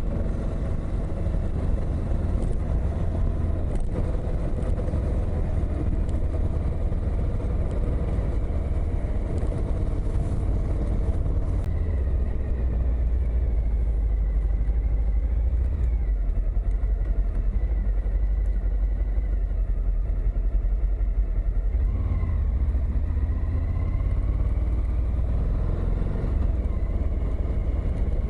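Suzuki V-Strom motorcycle on the move: its engine running under a heavy low wind rumble on the microphone, the engine note rising and falling now and then in the second half.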